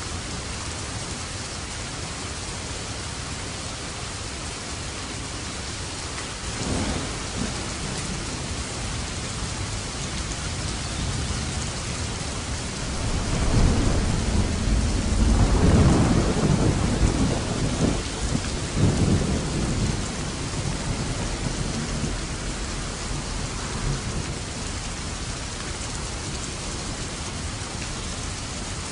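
Steady heavy rain with a rolling thunderclap: a short rumble about a quarter of the way in, then a long, deep rumble that builds about halfway through, peaks and dies away over several seconds.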